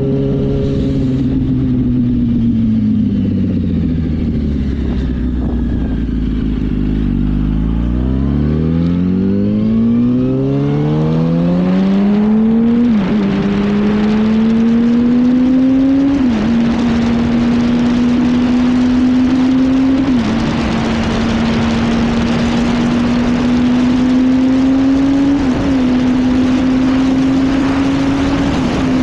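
Yamaha R1 sport bike engine on a ride, heard from the rider's position. The revs fall away for several seconds, then the engine pulls hard, its pitch climbing, with about five quick upshifts, each a sudden drop in pitch, as speed builds. Wind rush grows louder with speed.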